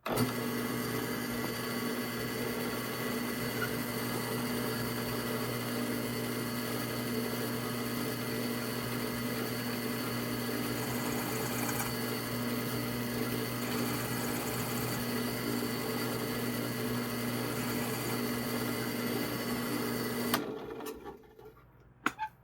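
Drill press running steadily with a fixed hum, driving a carbide-insert pen mill that trims the end of a wood pen blank flush with its brass tube. It starts abruptly, switches off about 20 seconds in and winds down over about a second, followed by a couple of sharp clicks.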